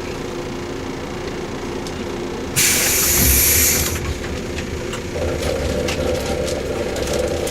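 A JR 115-series electric motor car running, its traction motors and gears giving a steady hum. About two and a half seconds in, a loud hiss of compressed air starts abruptly, lasts just over a second and cuts off suddenly.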